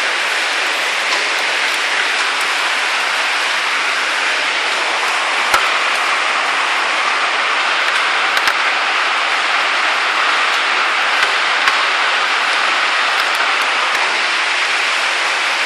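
Heavy storm rain pouring down in a steady, dense hiss, with a few sharp knocks of impacts here and there.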